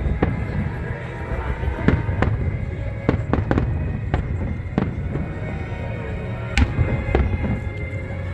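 Fireworks going off in an irregular string of sharp bangs and crackles, over a steady low rumble.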